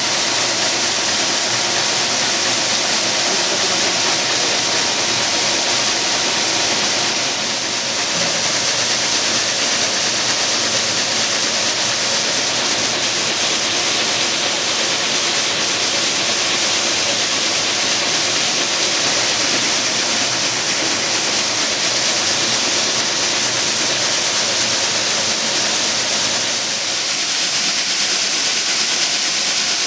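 Plastic-recycling washing machine running: a steady rush of water and hiss over a constant machine hum.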